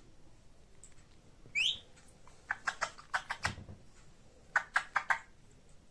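Indian ringneck parrot giving a short chirp, then two runs of quick, sharp clicks, with a soft low thump among the first run.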